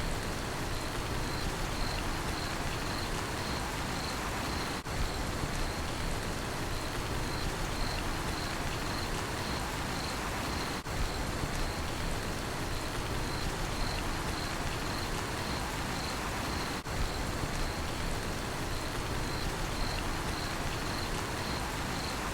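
Steady rainfall with a cricket chirping in an even, repeating rhythm, its chirp a high pulsing tone over the hiss of the rain. The level dips briefly about every six seconds.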